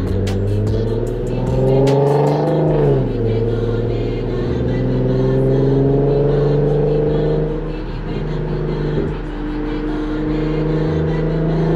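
Modified Infiniti Q50's V6 with aftermarket exhaust and resonated test pipes, pulling under acceleration. The revs climb, drop sharply at an upshift about three seconds in, then climb steadily again. It eases off briefly around eight seconds before pulling again, with a few sharp clicks in the first couple of seconds.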